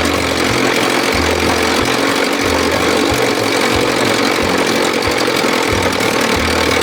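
1957 Sea King 5 hp two-stroke outboard motor running steadily.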